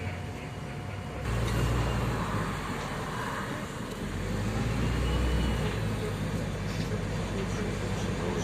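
Interior of an MAZ-105 articulated city bus under way: steady engine and road rumble. It steps up in loudness about a second in, as the bus gets going.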